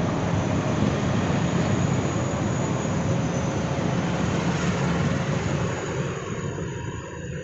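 Jet airliner's engines roaring as it flies past, a steady loud rumble that starts to fade about six seconds in.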